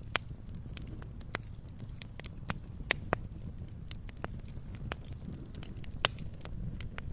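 Wood campfire burning: irregular sharp crackles and pops, a few much louder than the rest, over the low steady rumble of the flames.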